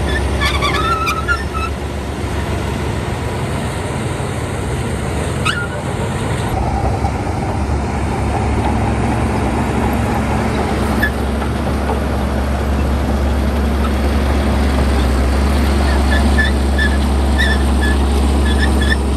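Heavy diesel earthmoving machinery running steadily with a deep engine drone. The sound shifts about six and a half seconds in.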